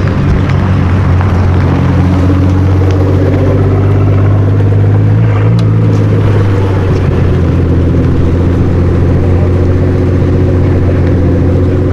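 Loud car engine running steadily at a low, even speed, as at idle, with no revving.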